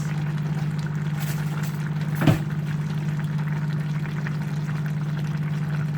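A steady low motor-like hum, with a single sharp clink about two seconds in.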